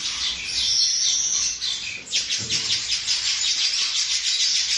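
Weaver bird chattering in high calls, which about two seconds in become a rapid run of short notes, about eight a second.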